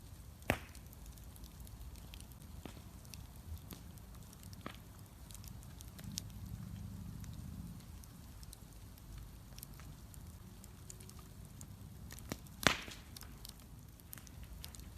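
Wood bonfire burning with a low steady rumble and scattered small crackles, and two loud sharp pops: one about half a second in and a louder one near the end.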